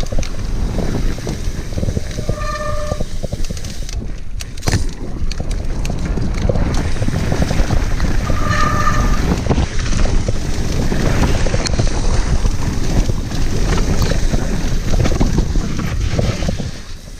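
Wind buffeting the microphone over the rumble and rattle of a mountain bike riding a rough, muddy trail, with brief high squeals three times.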